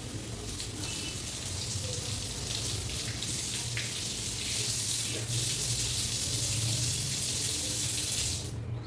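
Tap water running and splashing over long hair being rinsed, louder in the second half and cutting off abruptly near the end.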